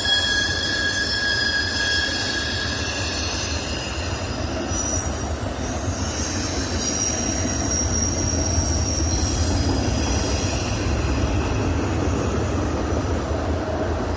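Freight train cars rolling past with a steady low rumble, their wheels squealing in several high, thin tones that come and go and overlap.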